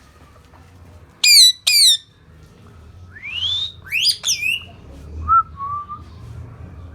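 Indian ringneck parrot squawking: two loud, sharp calls about a second in, then a rising whistle and a quick run of shorter calls a little past the middle.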